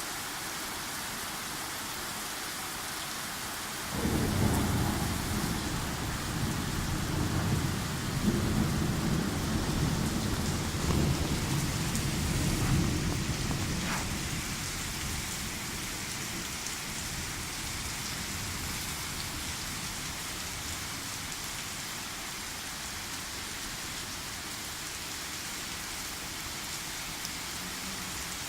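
Steady rain with a thunderclap that breaks suddenly about four seconds in, rumbling low for some ten seconds before fading away, leaving only the rain.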